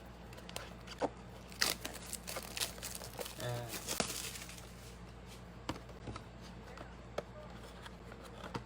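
Plastic wrapping tearing and crinkling as a blaster box of trading cards is opened by hand, with scattered light clicks and rustles.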